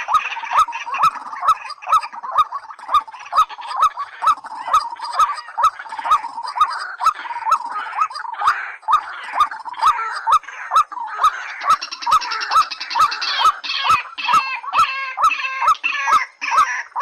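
Bird-call recording of white-breasted waterhen and watercock: short calls repeating steadily about two and a half times a second, each with a sharp click. A denser chorus of calls joins about 11 seconds in.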